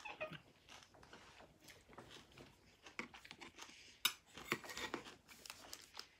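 Close-up chewing of juicy dragon fruit flesh: soft wet mouth clicks and smacks, busier and louder for a moment about four seconds in.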